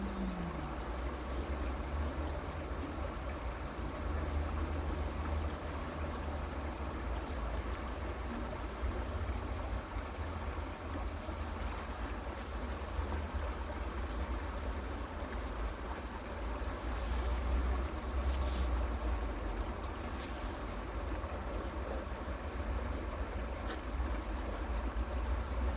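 Flowing creek water running steadily, with a low rumble underneath that swells a little now and then.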